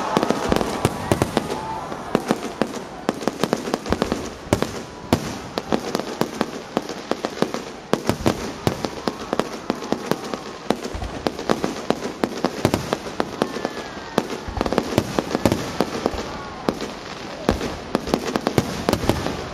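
Aerial fireworks going off in a dense, continuous barrage of rapid bangs and crackles, many each second without a pause.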